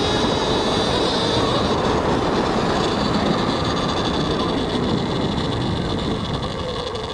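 Electric dirt bike under way. A thin steady motor whine sits over a heavy rush of wind and tyre noise on a helmet-mounted mic, easing a little near the end.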